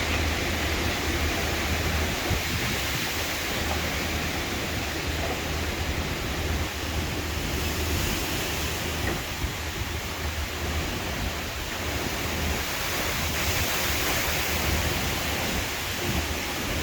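Strong thunderstorm wind blowing steadily, with a constant rushing noise and a low, uneven rumble from gusts buffeting the microphone.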